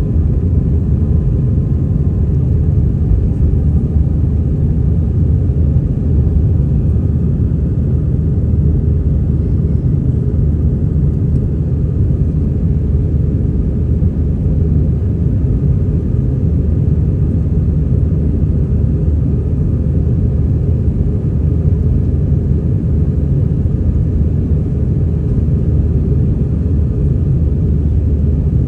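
Steady low rumble of an Airbus A320-200's engines and airflow, heard from inside the passenger cabin.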